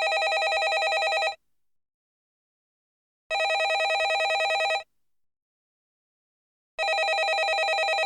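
Landline telephone bell ringing: three rings of about a second and a half each, with about two seconds of silence between them.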